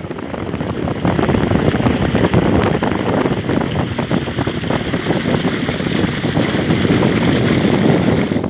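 Loud wind buffeting the microphone, with water rushing and splashing, as a boat moves along through the marsh. The noise builds over the first second, then stays level.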